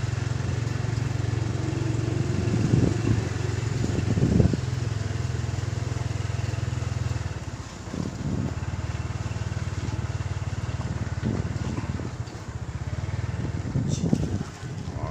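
Honda Dash 110 motorcycle's single-cylinder four-stroke engine running as the bike rides along, with a steady low hum that drops back about seven seconds in as the throttle eases. A couple of dull thumps come around three and four and a half seconds in.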